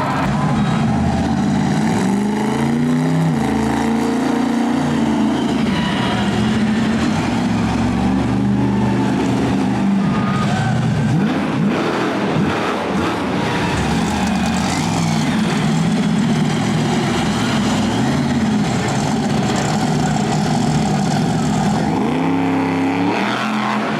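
Monster truck engine revving hard, its pitch climbing and falling again and again as the throttle is worked.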